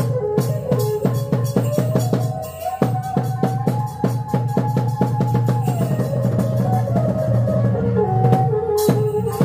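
Chhay-yam folk ensemble music: fast, steady drumming with a held melody line that steps up and down between a few notes.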